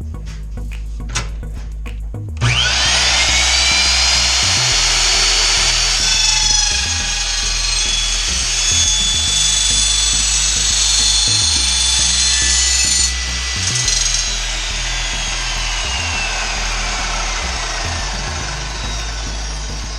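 Evolution slow-speed chop saw with a carbide-tipped blade starting up about two seconds in and cutting through steel with a loud, high screech for about ten seconds. The blade then winds down with a falling whine. Background music plays underneath throughout.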